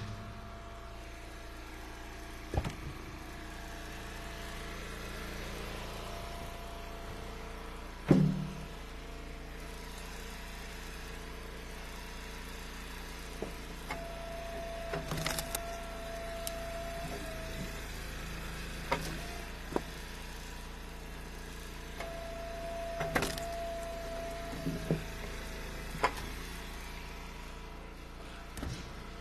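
Eastonmade engine-driven hydraulic wood splitter running steadily while ash firewood rounds are split. Twice a steady tone sounds for about three seconds as the splitter works, and sharp knocks and cracks of wood come throughout, the loudest about eight seconds in.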